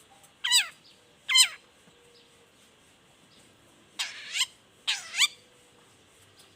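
Long-tailed shrike calling with harsh notes that fall in pitch: two short calls in the first second and a half, then two longer, rougher double calls about four and five seconds in.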